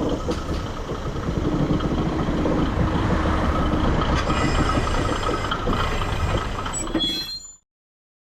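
Isumi Railway diesel railcar running on the track, a steady rumble with wheel-on-rail noise and brief high wheel squeals near the end. The sound cuts off suddenly a little before the end.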